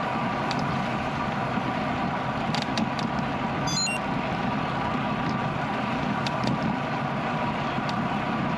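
Steady wind rush and tyre noise of a bicycle rolling on a road, with a few faint clicks and a brief high chirp about four seconds in.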